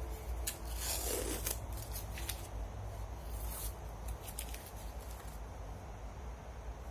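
Tape being peeled off a wooden gunstock and buttplate: faint, scattered crackles and short rips, busiest in the first few seconds, over a low steady hum.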